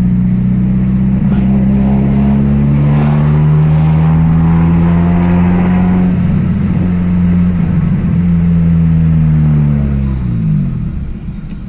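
Chevrolet Kadett's four-cylinder engine through a straight-pipe exhaust with no muffler, heard from inside the cabin, pulling at fairly steady revs. Near the end the revs fall away and it gets quieter as the throttle is released.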